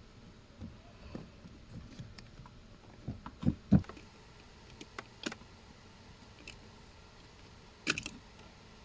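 Scattered clicks and knocks from handling parts and tools during blower-motor replacement work, with two heavier low thumps about three and a half seconds in and a short cluster of sharp clicks near the end.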